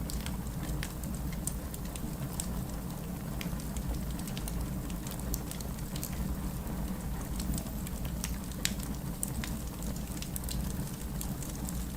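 Fireplace crackling in scattered sharp pops, mixed with a steady hiss of rain and a low rumble underneath.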